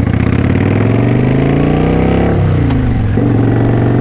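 Kawasaki Vulcan VN900 V-twin motorcycle accelerating, its engine rising in pitch, then dropping briefly about two and a half seconds in as it shifts up a gear, then running steadily.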